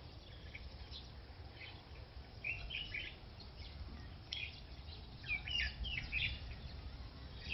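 Small birds chirping in short scattered calls, coming in clusters about two and a half seconds in, around four seconds, and between five and six seconds, over a steady low rumble.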